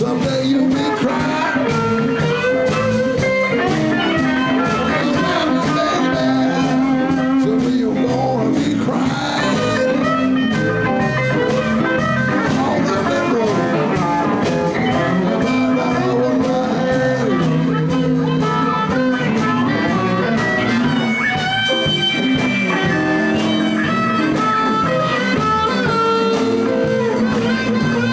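Live blues band playing a steady, continuous number, with guitar audible.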